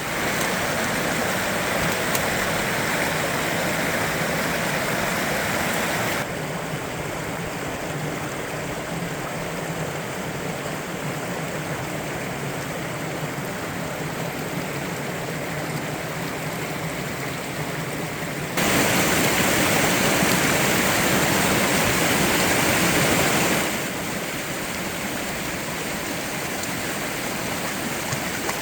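Rushing water of a small, steep mountain brook pouring down through plunge pools: a steady, dense rush and splash with no let-up. The level drops a little about a fifth of the way through, then jumps sharply louder for about five seconds two-thirds of the way through before falling back.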